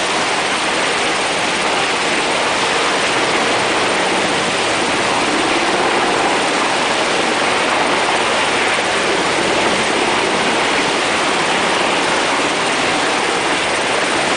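Military helicopters (UH-60 Black Hawks) flying over: a loud, steady rushing noise of turbines and rotors, even throughout, with no distinct blade beat.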